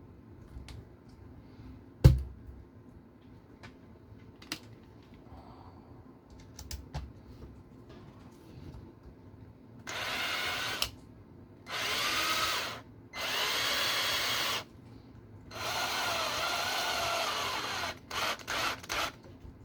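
Small power screwdriver driving screws into an RC car's plastic transmission housing: four separate runs of one to two seconds each, the motor's pitch sagging and shifting under load, then a few short blips as the screw seats. Before that come light handling clicks and a sharp knock about two seconds in, the loudest sound.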